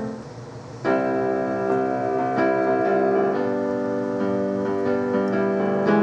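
Keyboard music: sustained chords played on a piano-type keyboard, with a louder chord coming in about a second in and the notes changing every second or so.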